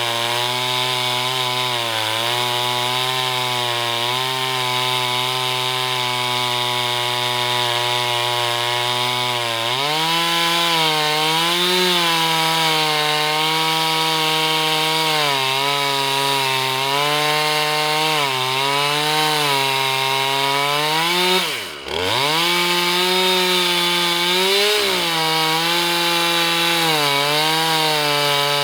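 Husqvarna 445 two-stroke chainsaw on an Alaskan chainsaw mill running at high revs while ripping an oak log lengthwise, its pitch sagging and recovering as the chain loads up in the cut. About 22 seconds in the engine note drops sharply for a moment, then picks back up.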